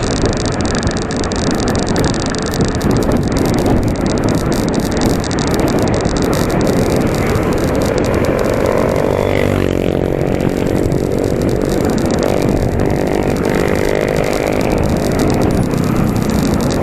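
Steady street traffic noise, with a motor vehicle's engine passing close and rising then falling through the middle.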